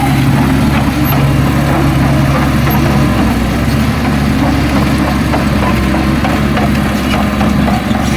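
Heavy diesel engine of earthmoving machinery running steadily and loudly, its note shifting slightly about three seconds in.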